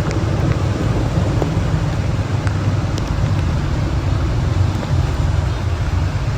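Steady low rumble of vehicle and road noise, with a few faint ticks.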